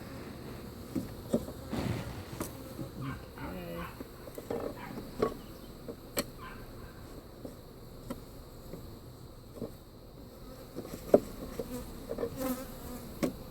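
Honeybees buzzing steadily around an open top-bar hive, with scattered sharp clicks and knocks, the loudest about eleven seconds in.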